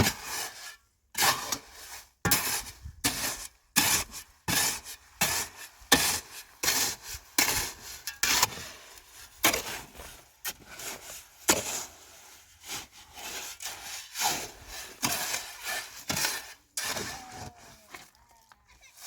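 Repeated scraping strokes, about two a second, with short pauses between runs.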